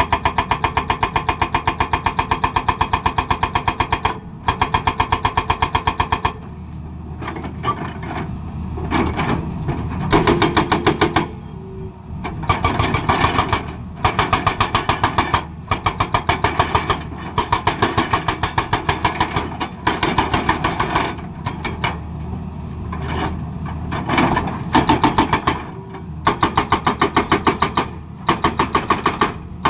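Hydraulic breaker on a Tata Hitachi excavator hammering in repeated runs of rapid blows, each run a second or two long, with short pauses in which the excavator's engine is heard running.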